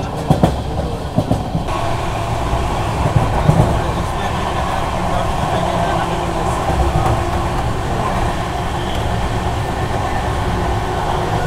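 Humsafar Express passenger train running at speed: a steady rumble of the coach on the track, with a few sharp clicks in the first couple of seconds.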